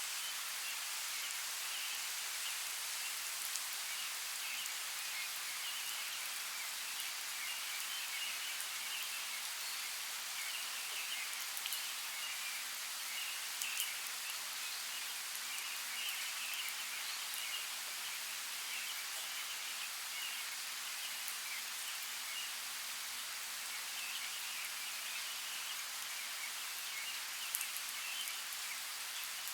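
Steady hiss of running creek water, with faint short high chirps scattered throughout and a couple of brief clicks.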